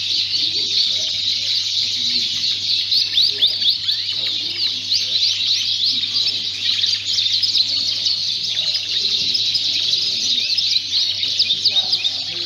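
A large number of Fife canaries singing together in a show hall, making a dense, continuous chorus of overlapping high chirps and trills.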